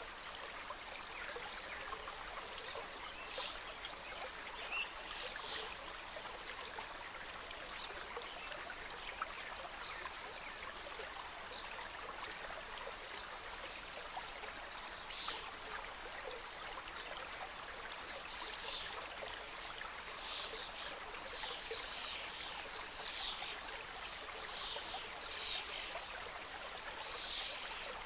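Mountain stream flowing over rocks in a steady, even rush of water, with brief high, bright sounds scattered through it, more often in the second half.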